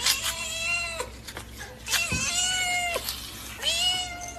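A cat meowing: three long, drawn-out meows of about a second each.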